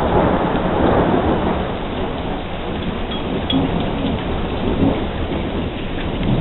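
Thunderstorm: thunder rumbling over steady rain, loudest at the start and then easing to an even rumble.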